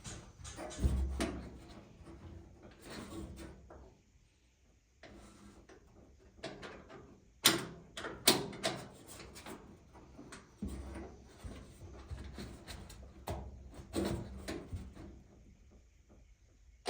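Scattered metal clicks, taps and rattles as a latch rod and clip are worked into the latch mechanism inside a square-body Chevy truck door. Two sharp clicks a little before the middle are the loudest.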